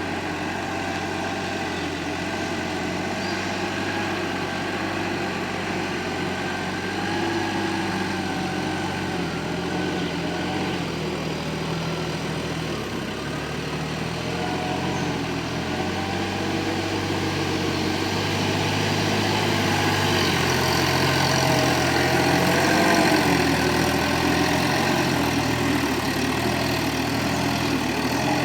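Sonalika tractor's diesel engine running steadily while pulling a cultivator through a field, its pitch wavering slowly as the load changes. It gets a little louder about two-thirds of the way through.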